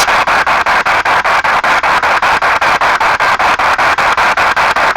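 P-SB7 spirit box sweeping through radio stations: loud static chopped into rapid, even pulses, about six a second.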